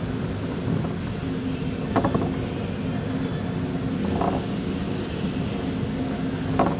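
A boat's engine running steadily, with a few short knocks about two seconds apart.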